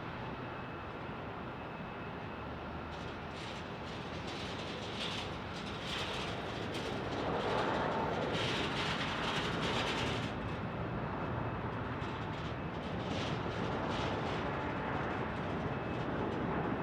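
Jet airliner's engines rumbling as it passes, swelling to its loudest a little before halfway and then easing back to a steady roar.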